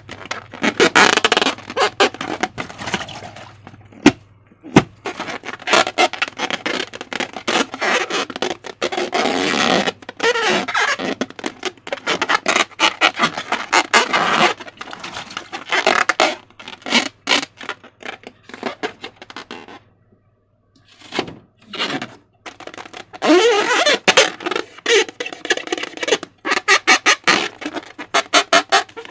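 Slime being squeezed and stretched by hand: a wet, crackling run of sharp clicks and pops with squelches in between. A short lull comes about two-thirds of the way through.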